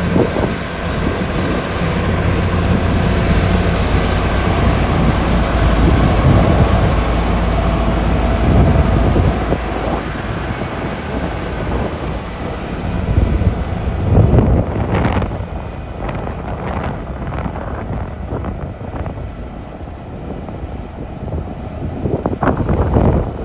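Komatsu D41P bulldozer's diesel engine running, heaviest for the first ten seconds and then easing off. Gusts of wind buffet the microphone in the second half.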